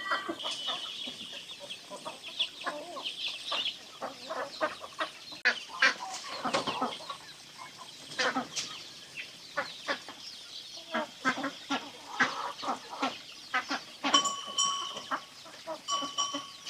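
Chickens clucking, with many short, irregular calls. Two longer, higher held calls come near the end.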